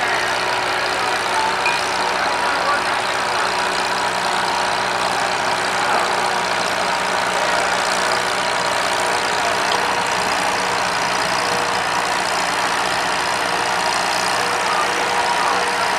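Antique tractor engine running steadily, its level hardly changing throughout.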